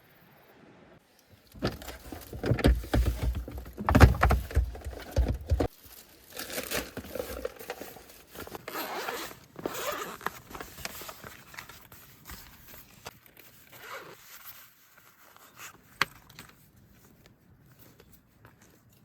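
Rustling, scraping and bumping of things being handled, heaviest in the first few seconds with deep thumps, then lighter rustles and a few small clicks, one sharp click near the end.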